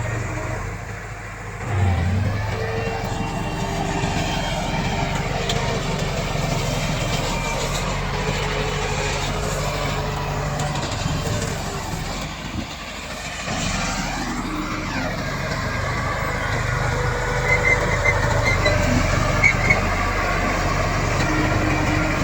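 Komatsu D68 bulldozer's diesel engine working under load, its pitch rising and falling as it is throttled, with a few short knocks near the end.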